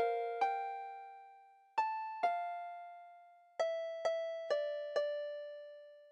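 Slow melody of single ringing notes, each struck and left to fade: two notes, a pause, two more, a pause, then four notes in a row.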